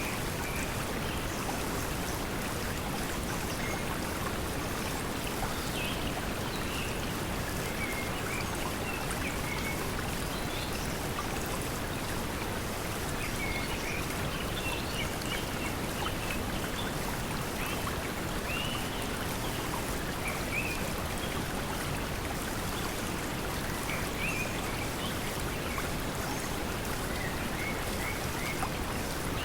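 Steady pink noise blended with flowing stream water, with short bird chirps scattered throughout.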